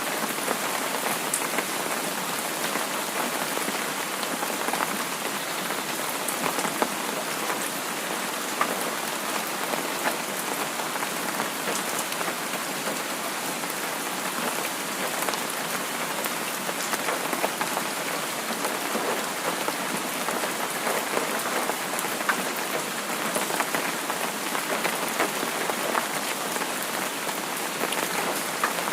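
Steady rain falling, a dense even hiss dotted with many small drop ticks.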